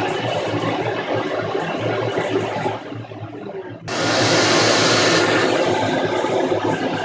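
Shop vac running steadily with an even airy rush over a low hum. It drops quieter about three seconds in, then comes back abruptly a second later.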